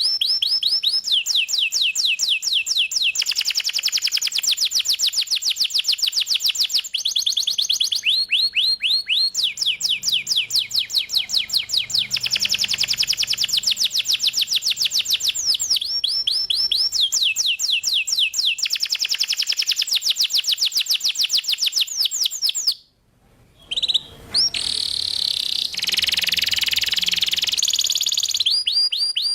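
Domestic canary singing in full song: long rapid trills of repeated sweeping notes, changing from one trill type to the next. The song breaks off for about a second a little over 20 s in, then resumes with a denser, buzzier passage.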